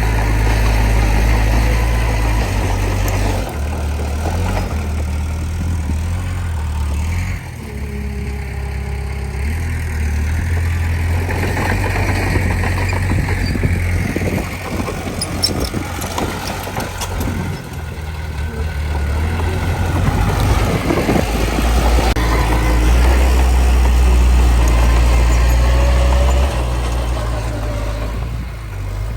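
Heavy diesel earthmoving machinery running, its engine note rising and falling several times as it works under changing load, with a few metallic clanks in the middle.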